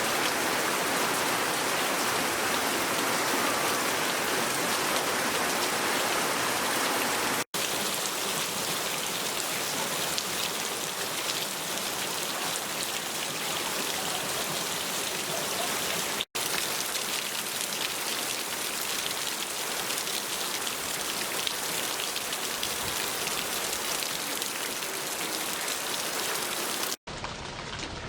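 Steady rain falling: an even, dense hiss of rain on surfaces, broken by three brief drop-outs where the recording is cut.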